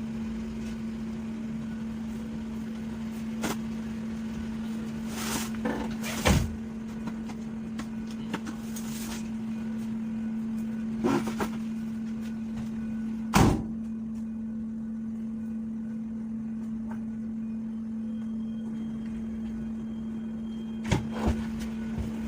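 A vehicle engine idling with a steady hum, broken by several sharp knocks and clunks of tools or doors being handled, the loudest about 13 seconds in.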